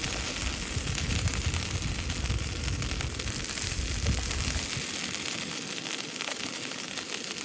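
Hash browns sizzling and crackling as they fry in a pan. A low rumble under it fades out about two-thirds of the way through, and the sound cuts off suddenly at the end.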